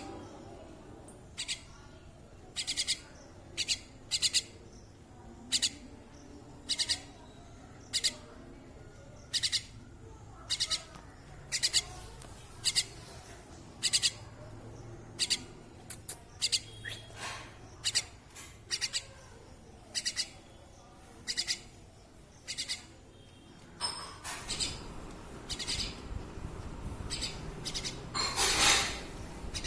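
Small pet bird chirping: short, high chirps repeated about every 1.3 seconds. Near the end there is a louder, longer sound over rising background noise.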